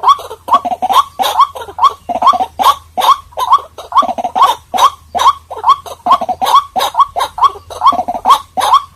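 White-breasted waterhen calling, a fast, even run of short rising notes, about three or four a second, repeated without a break.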